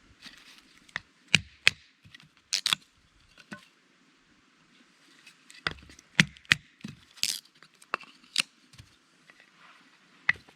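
A series of about a dozen sharp, irregular knocks and cracks, some in quick pairs, with quiet stretches between them.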